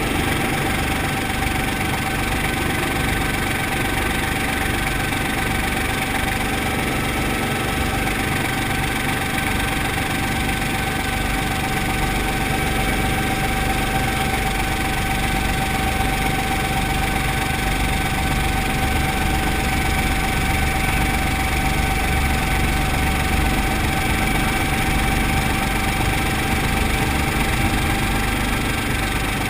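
Brantly B2B helicopter's piston engine and rotor running steadily, with a thin steady whine over the engine noise.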